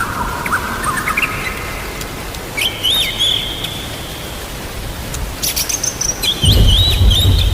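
A songbird singing short whistled phrases with quick sliding notes over steady rainfall. A low rumble of thunder comes in near the end.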